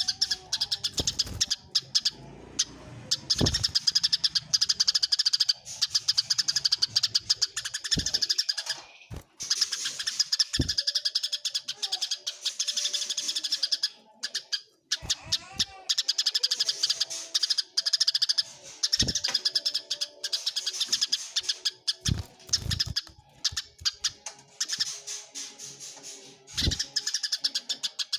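Eurasian tree sparrows (burung gereja) chattering in dense, rapid chirps, the agitated calls of sparrows fighting. The chatter breaks off briefly several times, and a few low knocks sound under it.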